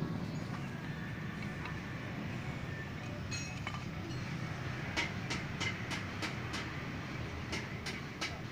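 Sharp metallic clicks or taps, about three a second, start about halfway through over a steady low hum, while a motorcycle chamber exhaust is being fitted.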